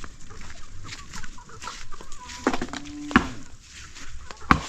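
Chickens clucking, with two sharp knocks in the second half that are louder than the birds.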